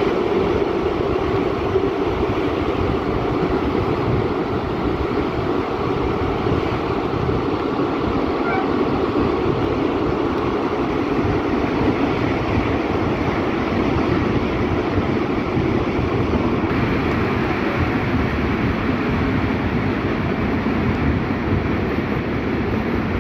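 Steady running noise of a Centoporte passenger train in motion: the rumble and rattle of the carriages rolling along the track.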